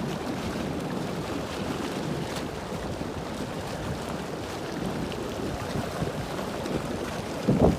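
Floodwater rushing steadily, with a short louder burst near the end.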